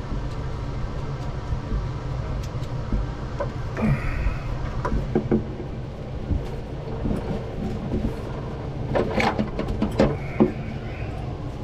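Scattered knocks and clicks of work handling, with a cluster of sharper knocks near the end, over a steady low rumble.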